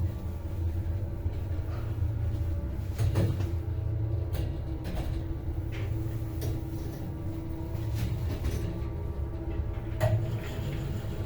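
MLZ passenger elevator in motion, its AS-72 two-speed drive motor giving a steady hum over a low rumble. About half a dozen short clicks and knocks from the car and shaft fall at uneven intervals.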